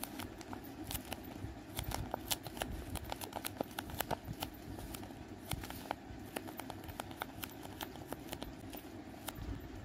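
Paper squishy being squeezed by hand: the paper crinkles and crackles in irregular sharp snaps, busiest in the first few seconds, then sparser, over a steady low background hum.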